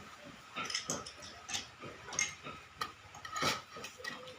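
Utensils clicking and clinking against a bowl while eating instant noodles, in irregular light clicks.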